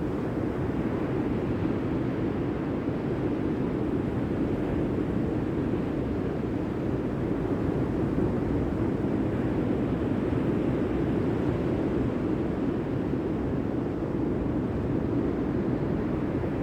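A steady, even rushing noise, deep rather than hissy, with no change in level.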